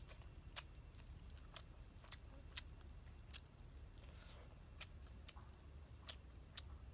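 A person chewing and biting into braised chicken, with quiet, sharp mouth clicks and smacks of eating at irregular spacing, about every half second, over a low steady hum.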